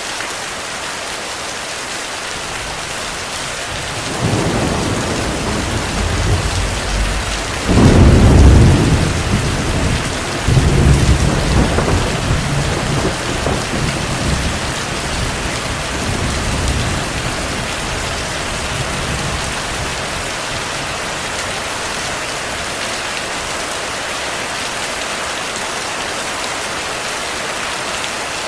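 Heavy, steady rain with a long rolling thunder rumble that starts about four seconds in, is loudest a few seconds later, surges again and fades away by the middle, leaving the rain alone.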